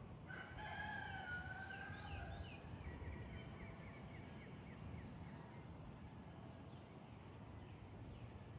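Rooster crowing once, a faint call of about two seconds starting just after the beginning, trailing off into softer short notes.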